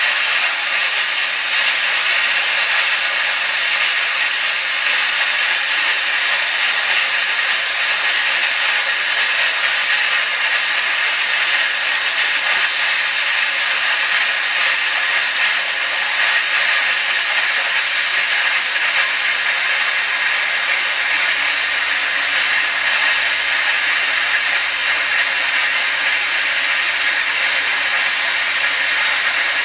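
Small plasma cutter cutting steel: a steady, loud hiss of air and arc that runs unbroken.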